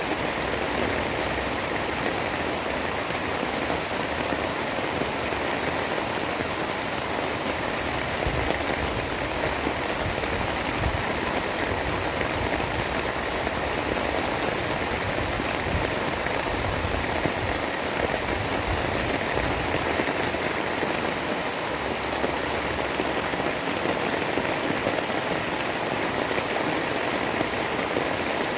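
Steady rain, an even, unbroken hiss with no thunder or other distinct events.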